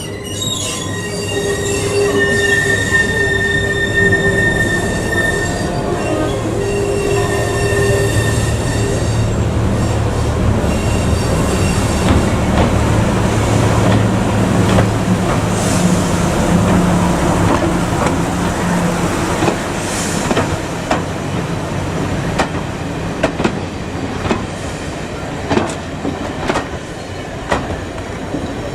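A train running on rails: high-pitched wheel squeal over the first eight seconds or so, a low steady hum from the train until about two-thirds through, then a run of sharp knocks as the wheels pass over rail joints.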